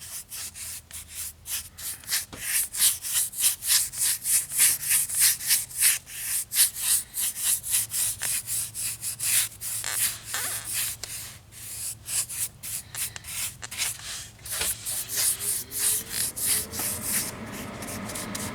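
Paintbrush bristles worked quickly against the model's floor, a steady run of scratchy brush strokes, several a second, splattering and spreading a weathering wash.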